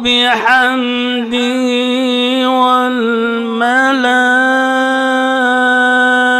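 Male voice reciting the Quran in a melodic, drawn-out chant. It makes several ornamented pitch turns in the first few seconds, then settles into one long held note.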